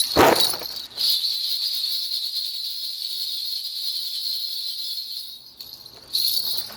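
Shaman's ritual bells being shaken steadily in a continuous high jingling shimmer, fading about five seconds in and returning briefly near the end. A short loud sound comes at the very start.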